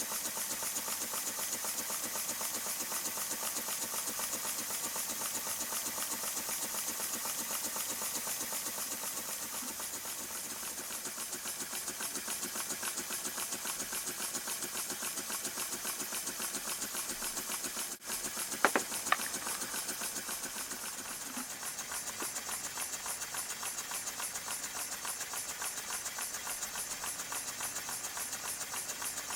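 Model Stuart Turner twin-cylinder launch engine running on compressed air: a fast, even chuffing hiss of exhaust beats. It runs steadily, briefly dipping near two-thirds of the way through, where two sharp clicks sound. The engine is newly built and still a bit stiff, not yet run in.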